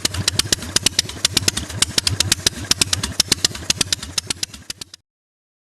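Indian Scout's 606 cc sidevalve V-twin engine running, its exhaust giving a rapid, uneven string of sharp cracks over a low hum. It cuts off abruptly a little before the end, leaving silence.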